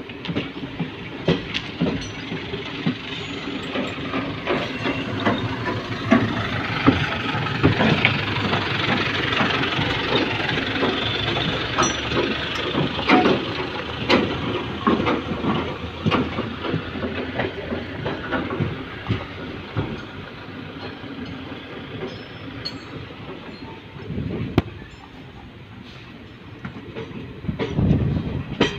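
A passenger train running along the track, heard from inside the coach at an open window. Steady rushing wind and rolling noise carries many irregular clacks and knocks from the wheels on the rails. It is loudest in the first half and eases off after about twenty seconds.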